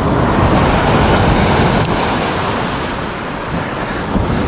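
Surf washing onto the shore, a loud rush of breaking water that swells in the first couple of seconds and then eases a little.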